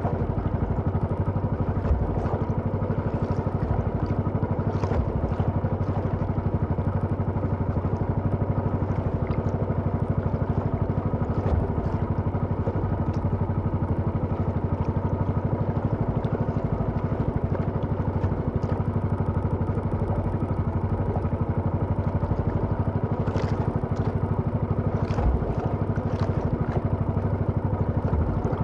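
A small engine running steadily at an even speed, with a few light clicks and knocks over it.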